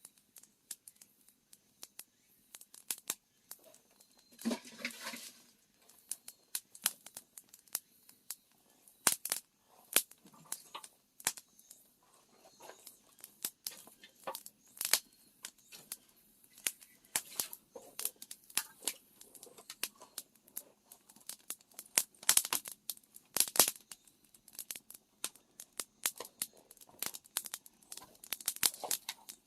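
Wood fire crackling under an iron cauldron, with irregular sharp pops and snaps, denser near the middle and the end.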